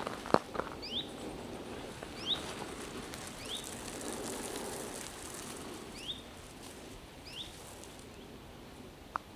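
A small bird repeating a short, upward-sliding call about once every second, over a soft steady rustle of movement that fades after about half the time.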